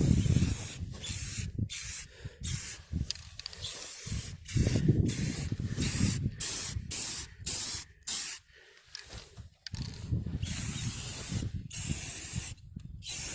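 Aerosol can of black spray enamel spraying in a series of short, separate bursts of hiss with brief gaps between them, coating galvanized pipe fittings with paint.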